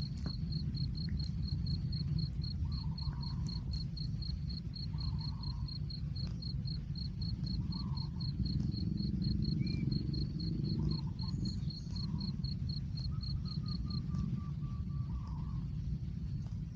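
An insect chirping in a steady, even pulse, about three high chirps a second, which stops a couple of seconds before the end. A steady low rumble lies under it, with short lower-pitched calls every couple of seconds.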